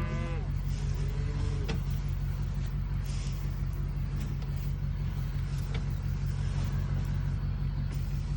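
A motor vehicle's engine running steadily at a low hum. Cattle moo in the first second or two.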